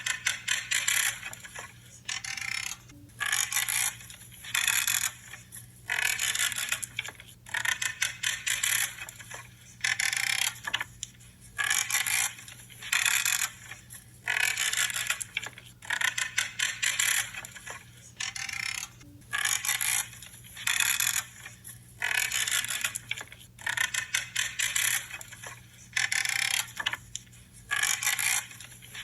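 Hand pruning shears cutting through branches one after another, each cut a crisp creaking crunch, about one a second and often in quick pairs.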